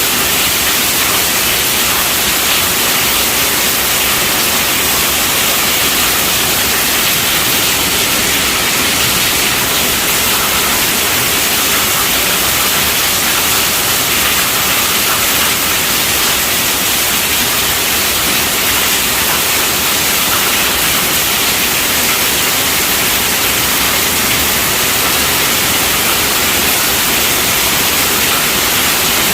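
Steady, even rainfall with a dense hiss and no separate drops or thunder standing out.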